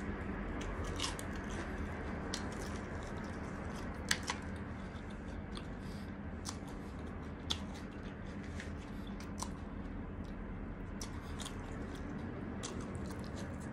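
Close-up chewing of crispy breadcrumb-coated deep-fried chicken, with short sharp crunches of the crust scattered through and a few louder ones about four and seven and a half seconds in, over a steady low background hum.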